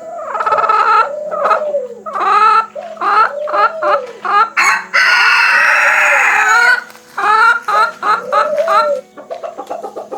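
Chickens: a rapid series of short clucking and squawking calls, with one longer rooster crow about halfway through.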